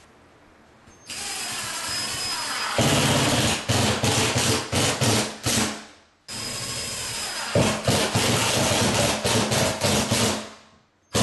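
Power drill driving two screws through a drywall patch into wood backing. Each run starts with a steadier whine, then gets louder as the screw bites and ends in a few short stop-start bursts.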